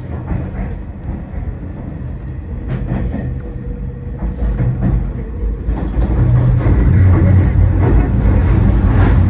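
Hanshin 5700 series electric commuter train running, heard from inside the car: a low rumble of wheels and running gear on the rails with a few clicks, growing louder about six seconds in.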